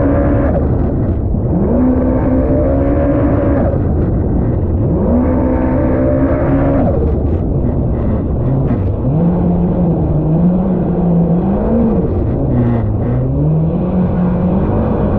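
Jet ski's supercharged four-cylinder Yamaha SVHO engine running under throttle. The pitch climbs and holds three times in the first seven seconds, then stays at lower revs, rising and falling.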